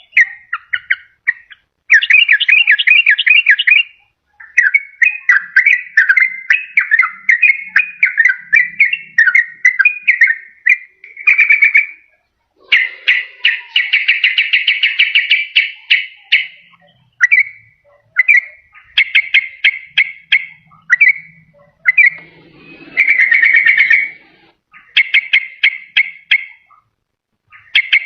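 Yellow-vented bulbul (trucukan) singing: a run of quick, bubbly chattering phrases, one after another with short pauses, loud and close.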